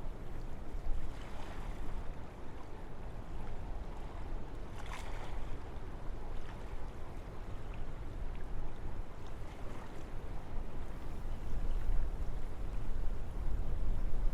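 Wind blowing through a forest: a steady rushing with a deep low rumble and a few brief, brighter gusts.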